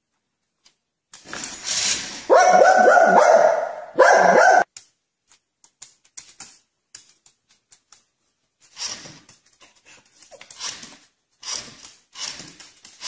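A dog barking loudly in a rapid run of barks for about three seconds, starting a second in, followed by softer scattered noises.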